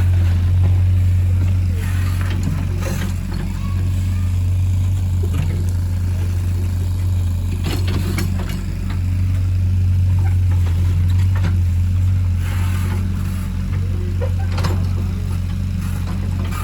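Excavator's diesel engine running at a steady low drone, with occasional short knocks and scrapes on top.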